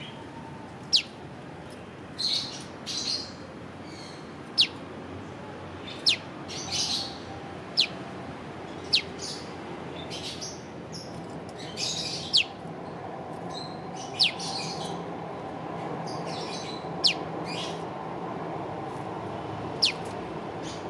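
A prenjak lumut calling its sharp 'piw' note over and over, each note a quick downward sweep, roughly every one to two seconds. Rougher, scratchy chattering notes come in between the calls.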